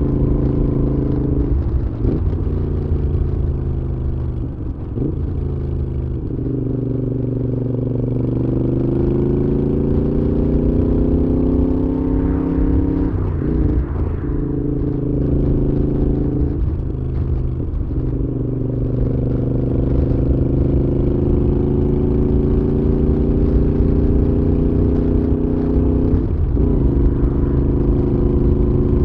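Moto Guzzi V7's transverse V-twin engine running through a Mistral exhaust while riding. The engine note climbs under acceleration and drops sharply at each of several gear changes.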